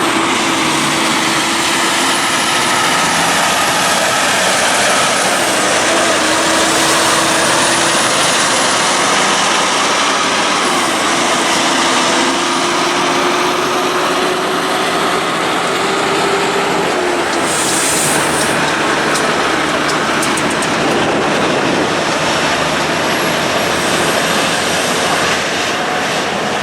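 Heavy diesel prime movers hauling an oversize load, engines running steadily under load; the engine note dips briefly in pitch about three times before fading, over a dense rumble of engines and tyres.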